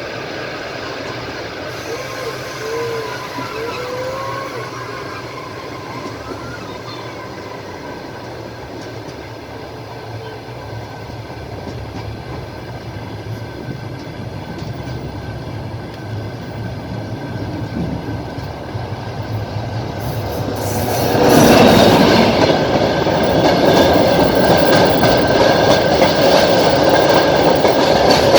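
Train wheels clacking over the rail joints, heard from a moving passenger carriage. The running noise grows suddenly louder about two-thirds of the way through.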